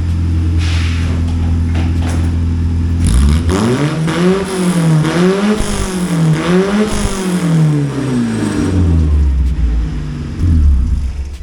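Toyota Corolla's 1.6-litre 2T-B four-cylinder engine idling, then revved up and down several times from about three seconds in, before settling back to a low idle.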